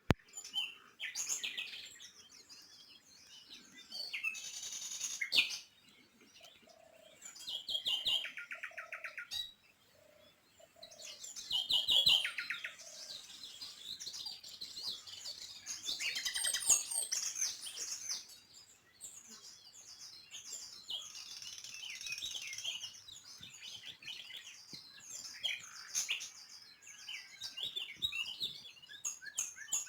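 Several small birds chirping and singing, with quick repeated trills about 8 and 12 seconds in, and a few short, low notes in between.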